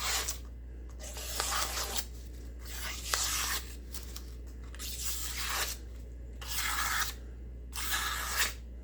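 Forged carbon-steel cleaver edge slicing through a sheet of paper in about half a dozen separate strokes, roughly one a second, each a short papery hiss. This is a paper-cutting test of the edge after a chop test, and it shows the edge is still sharp.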